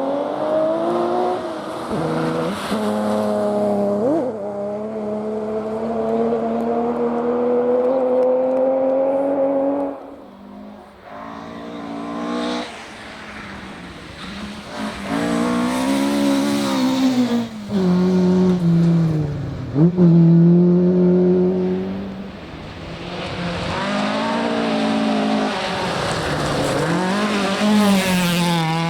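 Rally car engine revving hard on a stage: engine pitch climbs and holds high, drops as the driver lifts off, then rises and falls repeatedly through gear changes and corners, with a brief sharp crack near the middle.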